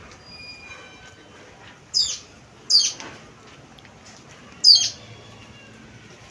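A bird calling: three loud, short, sharp calls that drop in pitch, the first two close together about two seconds in and the third a couple of seconds later.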